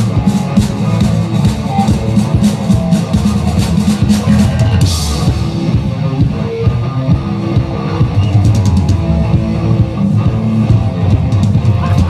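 Live drum kit and guitar jamming in a rock groove: busy drum hits over sustained low guitar notes, with a cymbal crash about five seconds in.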